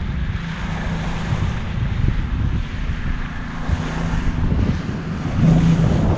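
A boat's engine running under way, a steady low hum, with wind buffeting the microphone and water rushing past; it gets a little louder near the end.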